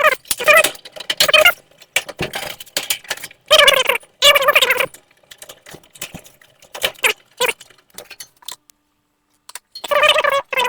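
Cordless power drill driving screws back into the dryer's sheet-metal panels, running in several short bursts, with small metallic clinks and handling clicks between them.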